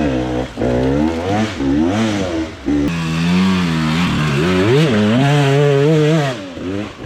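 Dirt bike engine revving up and down through several quick throttle blips, then held at high revs for about three seconds with one brief dip, easing off near the end.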